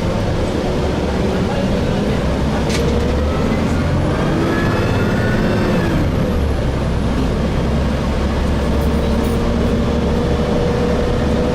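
Cabin sound of a Gillig Phantom bus with a Voith transmission running under way: a steady low rumble, with a whine that rises and then falls in pitch about four to six seconds in.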